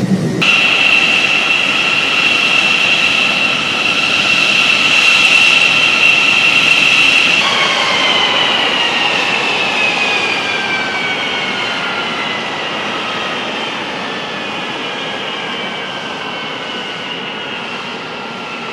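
F-16 Fighting Falcon's jet engine running with a steady high whine; about seven seconds in the whine starts falling in pitch and the sound slowly fades as the engine spools down at shutdown.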